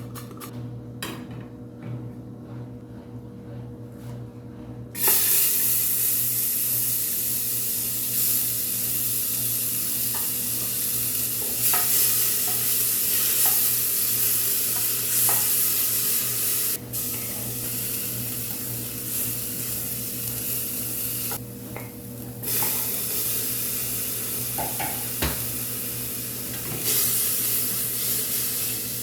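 Food sizzling in a hot frying pan, starting suddenly about five seconds in and going on steadily, with a few short clicks of stirring and brief dips in the sizzle. A steady low hum runs underneath.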